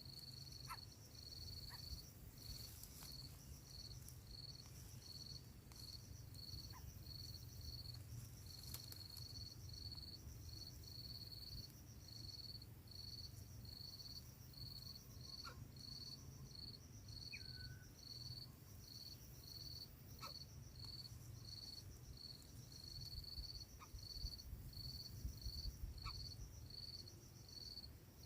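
An insect chirping steadily in short, high-pitched pulses, about one and a half a second, over a faint low rumble.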